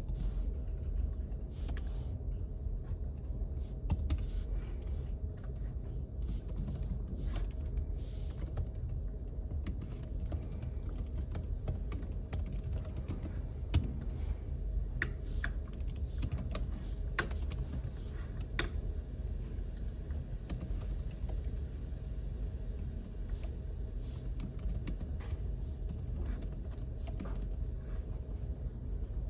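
Computer keyboard typing in irregular runs of key clicks, over a steady low hum.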